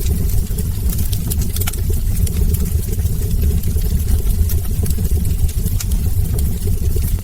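Wood logs burning in a fireplace: a steady low rumble of the fire with frequent small, sharp crackles and pops.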